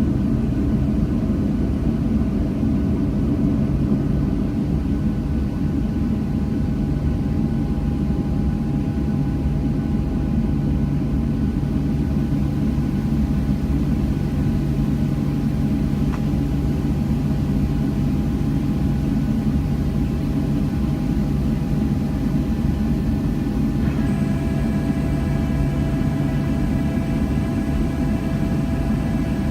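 Boeing 737 jet engines running steadily, heard from inside the airliner's cabin as a constant low rumble with a steady whine. About 24 seconds in, a higher set of whining tones joins it.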